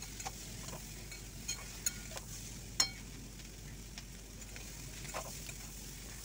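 Potatoes, onion and amaranth stems frying in oil in a metal kadai, with a faint steady sizzle. A spatula stirring them scrapes and clicks against the pan a few times, the loudest clink about halfway through.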